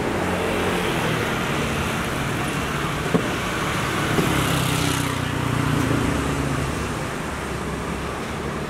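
Motor vehicle engine running in street traffic, swelling for a couple of seconds around the middle, with a single sharp knock about three seconds in.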